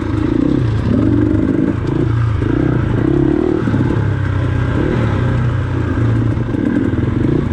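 Dirt bike engine running on a trail ride, its pitch rising and falling repeatedly with the throttle.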